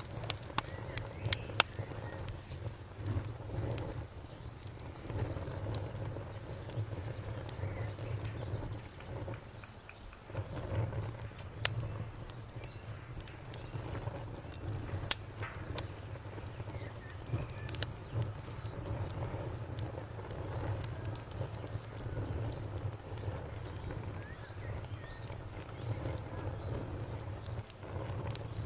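Fire crackling, with sharp pops scattered irregularly over a low steady rumble. A cricket chirps throughout in a fast, even pulsing trill.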